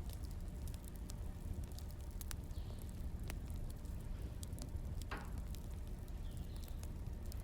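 Wood fire crackling: irregular sharp pops over a low steady rumble, with a brief hiss about five seconds in.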